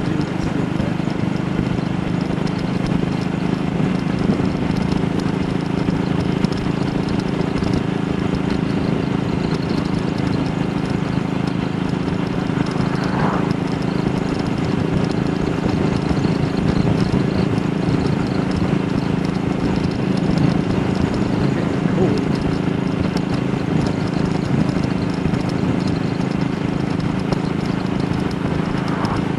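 AJS Model 8 motorcycle engine running at a steady speed while being ridden, its note holding steady.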